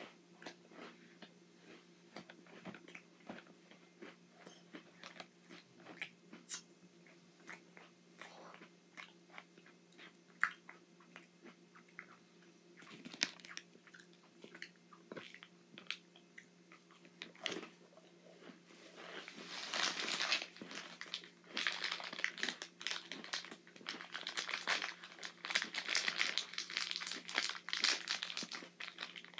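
Oreo cookies being bitten and chewed close to the microphone, with scattered crisp crunches. From about two-thirds of the way in, a plastic Oreo wrapper crinkles loudly and continuously as it is handled and opened.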